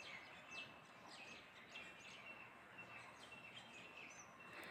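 Near silence, with faint bird chirps: short falling notes repeating about twice a second.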